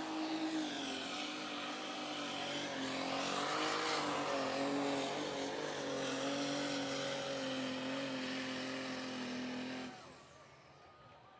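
Super stock pulling tractor's engine running at high revs under load down the track, its pitch wavering slightly. The engine note cuts off abruptly about ten seconds in.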